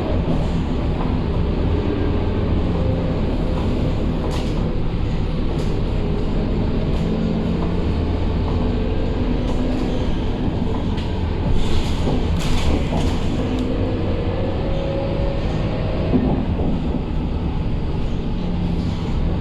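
Scania K230UB single-deck bus's diesel engine and drivetrain running in service, with a whine that rises and falls as the bus changes speed. Short rattles and knocks come through several times, the loudest a little past halfway.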